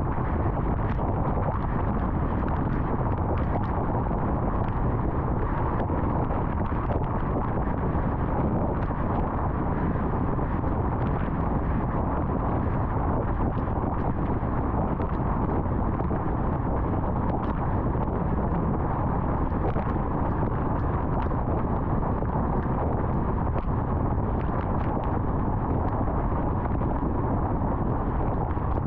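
A car driving at highway speed: a steady rumble of tyre and wind noise, with faint scattered ticks.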